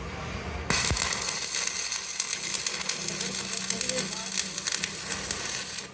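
Electric arc welding on a truck drive shaft: a dense, loud crackling sizzle that starts suddenly under a second in and cuts off just before the end.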